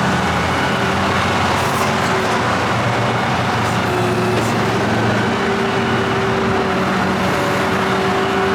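Tow truck engine running steadily with road noise as it drives.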